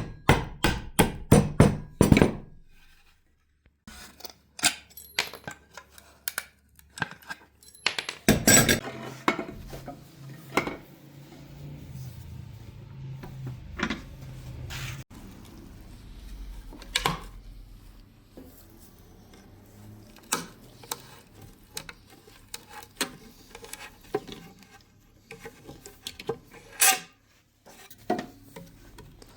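Quick hammer taps, about three a second, stop about two seconds in. Scattered light clinks and knocks of hand tools being handled follow.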